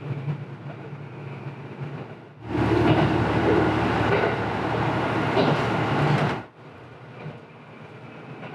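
Diesel railcar running along the line, heard from inside the car: a steady engine hum under the rumble of the running gear. From about two and a half seconds in to about six and a half seconds the running noise is much louder, starting and stopping abruptly.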